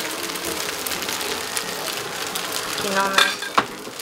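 Leftover fried chicken and rice sizzling and crackling in a hot frying pan as they are stirred for fried rice. A brief voice sounds about three seconds in, followed by a single sharp knock.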